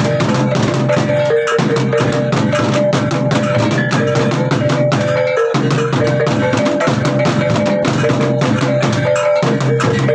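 Percussion music played at a fast, even pace: many quick drum strikes over a few sustained ringing tones that shift pitch in a repeating cycle.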